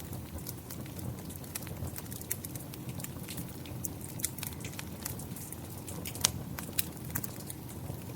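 Wood fire crackling, with irregular sharp pops over a steady wash of rain. The loudest pop comes a little past six seconds in.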